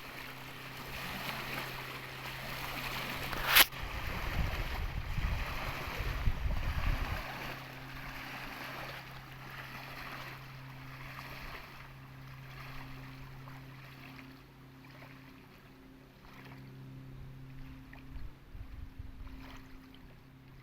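A motor hums steadily over a wash of water and wind noise. There is a sharp click about three and a half seconds in, and a spell of low rumbling from about four to seven seconds.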